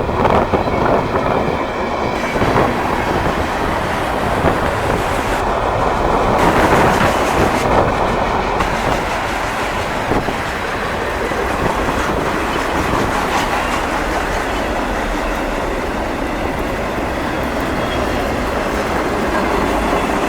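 Freight train of auto racks rolling past close by, a steady clattering rumble of cars and wheels on the rails, with brief high-pitched wheel squeals near the start and twice more around six and eight seconds in.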